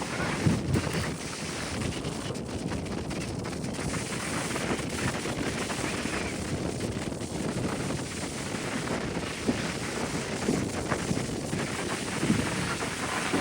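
Wind buffeting the microphone in uneven gusts over a steady rush of surf.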